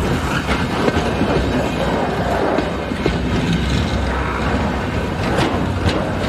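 Container train's loaded flat wagons rolling past, a steady rumble of steel wheels on the rails. A few sharp clacks come through, two of them near the end.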